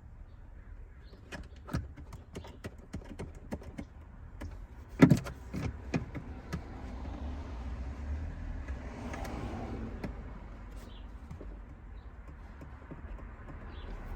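Hand work on car interior parts: a run of small clicks and knocks as parts and tools are handled, with one loud knock about five seconds in, then a steady rustling.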